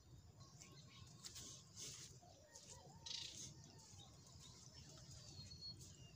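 Faint birds chirping, with a few short whistled notes near the end, over a low steady outdoor rumble.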